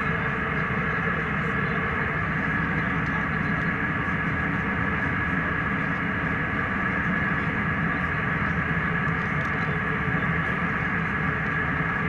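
Jet airliner cabin noise in flight: an even, steady rushing roar with a thin steady whine held above it.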